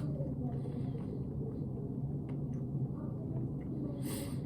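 Steady low machine hum in a small room, with faint small clicks scattered through it and a short hiss about four seconds in.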